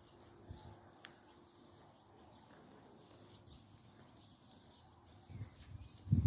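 Faint birds chirping in scattered short calls over quiet outdoor ambience, with a few low muffled bumps near the end.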